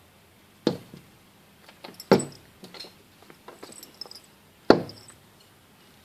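Sharp knocks on window glass, three loud ones with short ringing tails and fainter taps and clicks in between.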